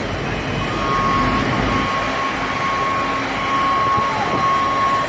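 Heavy vehicle engines running amid dense outdoor noise, with a steady high-pitched tone coming in about half a second in and holding.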